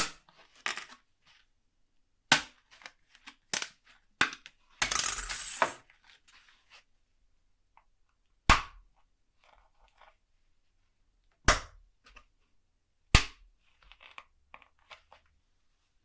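Sharp clicks and taps of small tools and parts being handled and set down on a workbench, about eight separate hits spread out with pauses between them. A short scraping or rustling noise lasts about a second near the middle.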